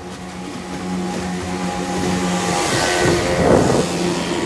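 A motor vehicle's engine running at a steady pitch, growing louder, with a rush of noise that peaks about three seconds in, as something passes close by.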